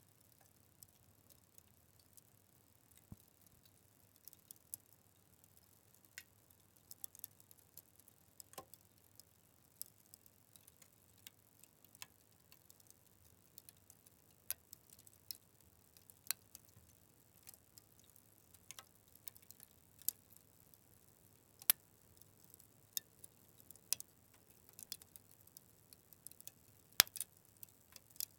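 Wood fire crackling: irregular sharp pops and snaps, a few louder ones about 22 and 27 seconds in, over a faint quiet background.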